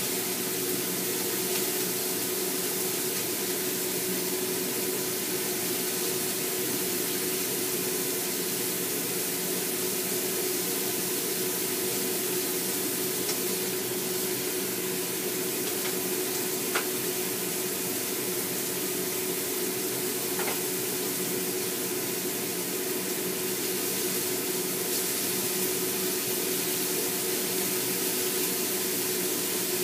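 Enoki mushroom and beef rolls frying in oil in a pan: a steady sizzle, with a steady hum underneath and a couple of faint clicks partway through.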